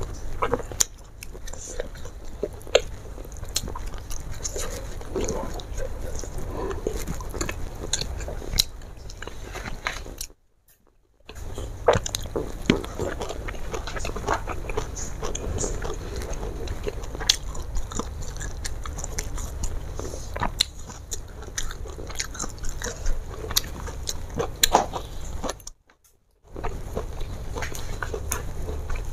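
Close-miked chewing of a person eating fried fish and rice, with many small sharp mouth clicks. The sound drops out abruptly twice, briefly each time.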